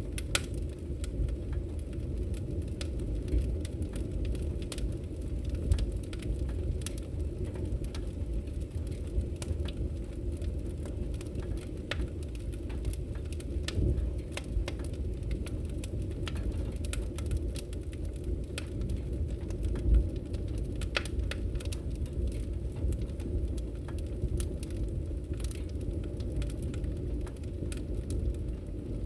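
Campfire burning: a steady low rumble with scattered small crackles and pops throughout, one louder pop about twenty seconds in.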